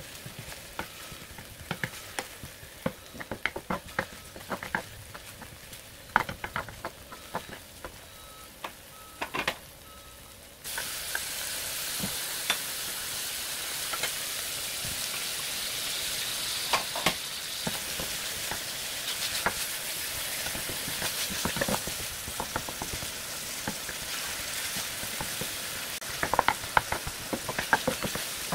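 Green onions frying in oil in a nonstick pan, a wooden spatula tapping and scraping as they are stirred. About ten seconds in the sizzling suddenly grows much louder and stays loud as bacon and sliced sausage fry with the onions, with the spatula still clicking against the pan.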